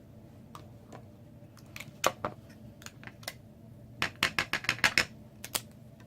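Small hard taps and clicks of a rubber stamp being picked up and tapped on an ink pad: two louder taps about two seconds in, then a quick run of about seven taps around four seconds in.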